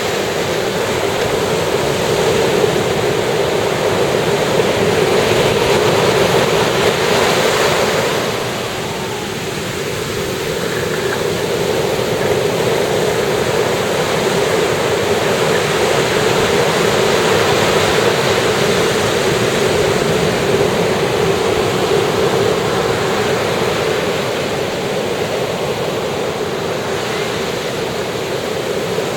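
Ocean surf washing onto the shore in a steady rush that swells and eases, dipping briefly about a third of the way through before building again.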